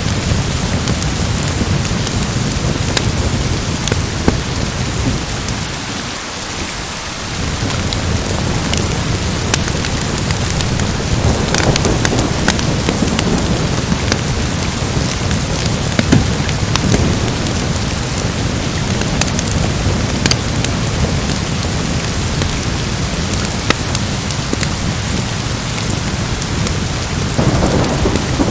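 Steady rain with swells of low thunder rumble, one about a third of the way in and another near the end. Scattered sharp crackles from a wood fire.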